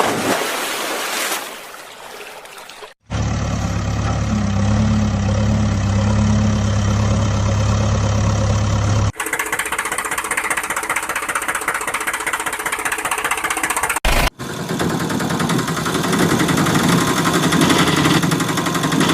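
Vehicle engine sounds running and idling, in several separate segments that switch abruptly from one to the next.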